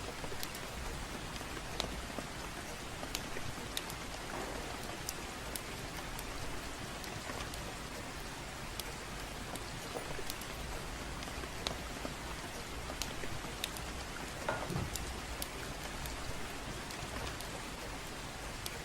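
Gentle rain falling steadily, with scattered sharp crackles from a wood fire, about one every second or two.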